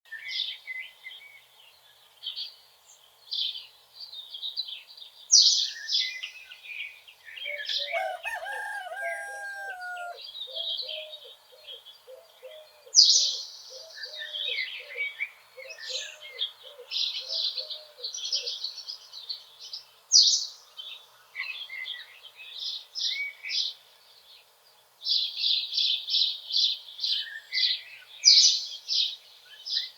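Songbirds chirping and singing in a forest, with a distant rooster crowing about eight seconds in. After the crow comes a run of low repeated notes that lasts several seconds.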